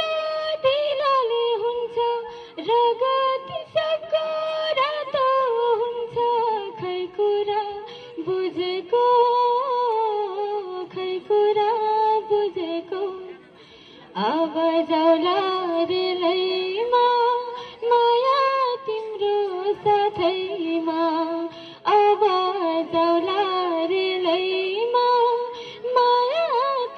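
A woman singing a Nepali folk-style melody solo, her voice gliding and ornamented. The phrases pause briefly about 13 seconds in and again about 22 seconds in.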